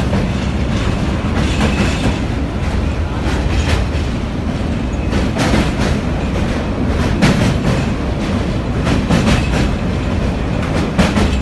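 Passenger train running along the track, heard from aboard: a steady rumble of the wheels with repeated clacks as they pass over rail joints.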